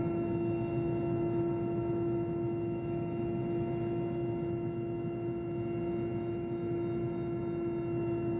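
Helicopter in flight: a steady drone of engine and rotor noise with a constant pitched hum, unchanging throughout.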